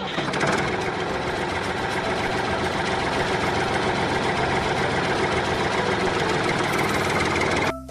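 Steady engine-like mechanical running with a dense, fast rattle, breaking off suddenly near the end.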